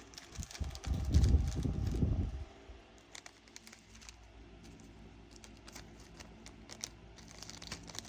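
Small plastic bag of diamond-painting drills being handled and crinkled, loudest in the first two and a half seconds, then only faint light clicks.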